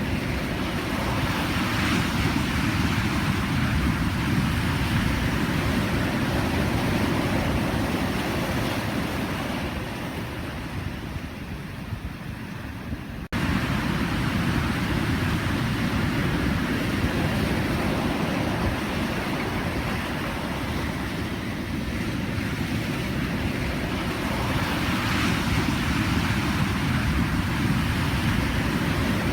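Pacific Ocean surf: a continuous wash of breaking waves, heaviest in the low rumble, with slow swells in level. The sound sags for a few seconds, then jumps back abruptly about halfway through.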